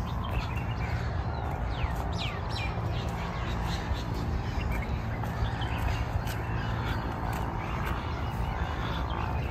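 Birds calling, with short falling whistled notes about two seconds in, over a steady low rumble.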